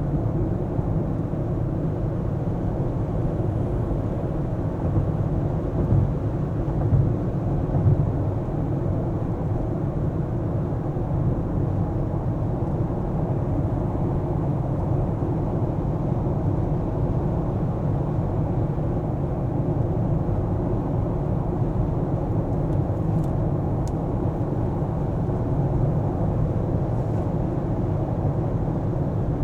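Steady low rumble of a car being driven, engine and tyres on the road, with a few brief louder bumps about six to eight seconds in.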